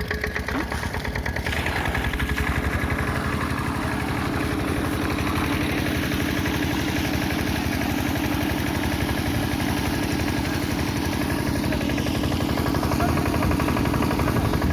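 Diesel engine driving an irrigation pump at a farm pond, running at a steady, even beat.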